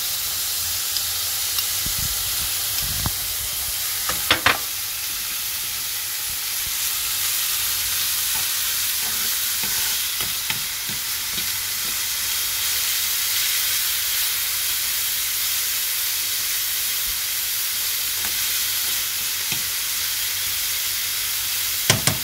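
Slivered almonds and shredded orange peel sizzling in hot oil in a pan, a steady hiss as a metal spoon stirs them. A few knocks of the spoon against the pan; the clearest, a ringing clink, comes about four seconds in, and two sharp taps come at the very end.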